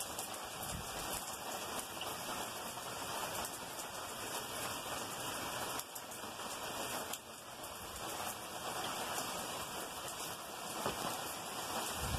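Heavy rain pouring steadily: a dense hiss of drops falling on the ground and surfaces.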